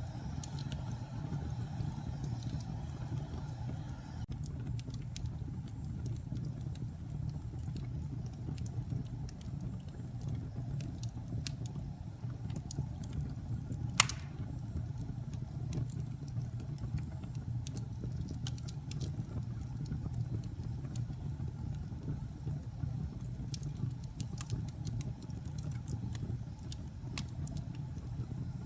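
Wood fire burning in a fireplace: a steady low rumble of flames with scattered crackles and one loud pop about fourteen seconds in.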